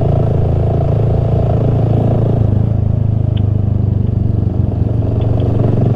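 Honda Grom's 125 cc single-cylinder engine running at a steady pitch while riding, heard from on the bike.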